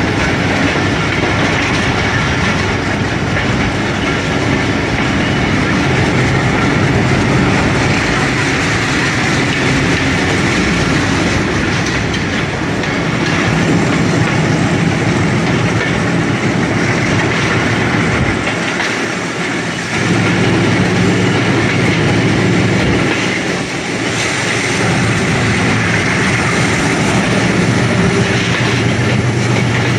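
A diesel-hauled passenger train running steadily, heard from a coach window: wheels clattering over the rails and air rushing past, with the locomotive's engine drone ahead. The engine drone grows stronger about two-thirds of the way through.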